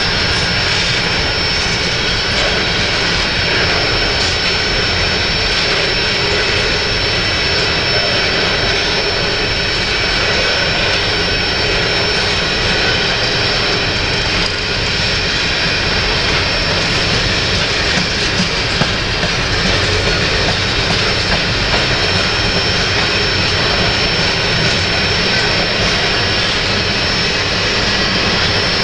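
Canadian Pacific freight train of covered hopper cars rolling steadily past: continuous noise of steel wheels on rail, with a thin steady high whine over it.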